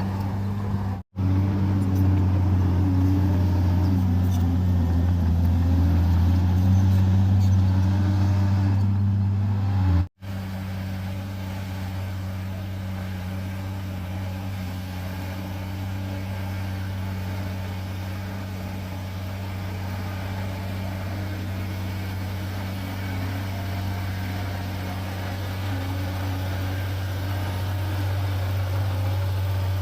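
Heavy diesel bulldozer engines running with a steady low drone. Between two brief dropouts, about one and ten seconds in, the engine is louder and its pitch rises and falls as it works. After the second dropout it settles to a quieter, even running.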